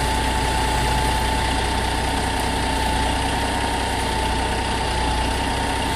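Ford 9000 log truck's diesel engine running steadily while it powers the log loader, with a steady high whine over the engine.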